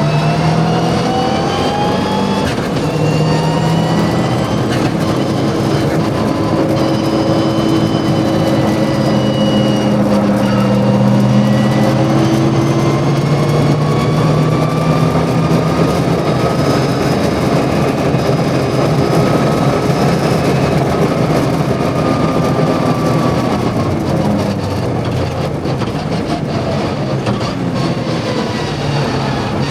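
Mitsubishi Lancer Evo VI Group A rally car's turbocharged four-cylinder engine being driven hard on track, revs climbing and dropping repeatedly with gear changes and lifting off for corners.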